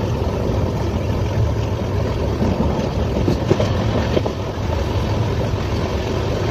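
Express passenger train running at speed, heard from on board: a steady rumble of wheels on the track with a few faint clicks.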